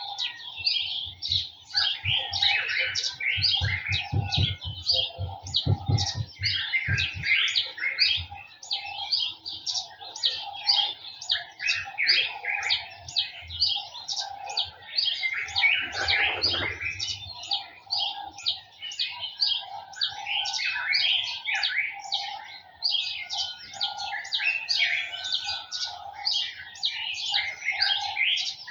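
A dense chorus of small garden birds chirping and twittering rapidly and without pause, with a lower repeated call sounding about once a second beneath it. A run of low thumps comes a few seconds in.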